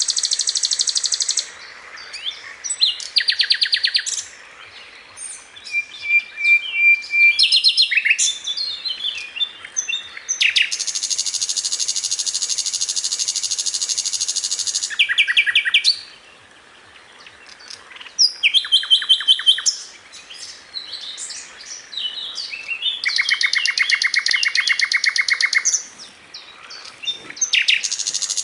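Sikatan londo song on a masteran training track: long rapid trills of evenly repeated high notes, alternating with short varied chirps and whistles and brief pauses between phrases.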